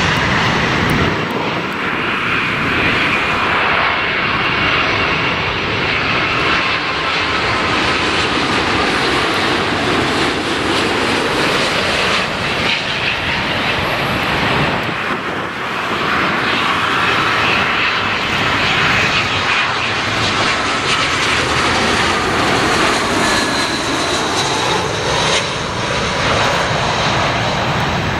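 Jet airliner engines passing close: a loud, steady rush with whining tones that glide in pitch.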